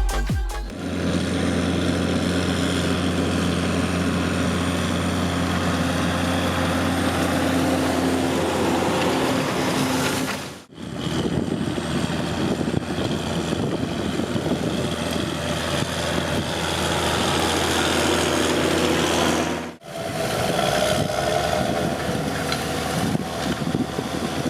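John Deere 6830 tractor's six-cylinder diesel engine running steadily at working revs, with a low steady hum, as it pulls a disc harrow. The sound is cut twice, about 11 and 20 seconds in, each time resuming with the same steady engine note.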